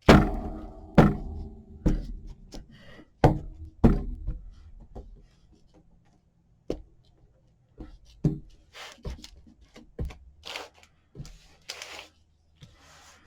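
A series of hard thunks and knocks against a craft tabletop as ink and stamps are worked onto a journal page, the first few loud with a short ring after each. Softer taps and paper rustling follow in the second half.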